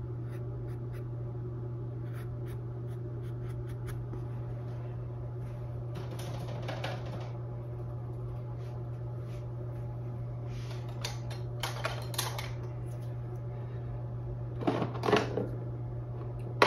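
Paintbrush scrubbing and dabbing paint onto a stretched canvas in a few short scratchy strokes, the strongest near the end, over a steady low electrical hum.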